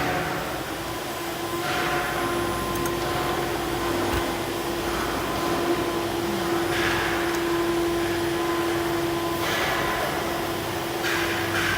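Wood crusher (sawdust hammer mill) running under test, a steady motor-and-fan hum with a held tone, with surges of rushing noise every few seconds.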